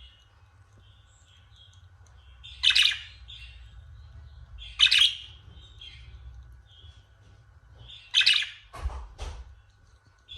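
Pet budgerigars chirping: three loud, harsh calls about two seconds apart, with softer chirps in between. Two short knocks follow near the end.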